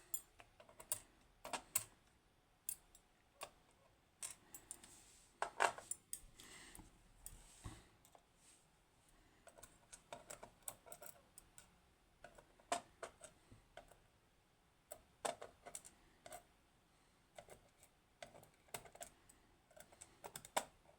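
Irregular light clicks and taps of small metal lock pins and a tool being handled and set down on a hard surface, as a dismantled Kaba Ace lock's pins are laid out.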